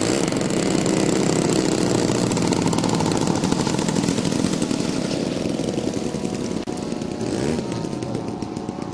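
Giant-scale model airplane engine running at low throttle as the plane lands, gradually getting quieter.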